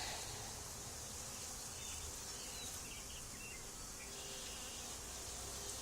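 Honey bee swarm buzzing steadily, many bees in the air at once.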